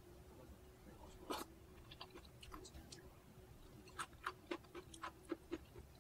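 Close-miked eating: a person chewing a mouthful of food, with one sharp knock about a second in and a quick run of crisp crunches from about four seconds on.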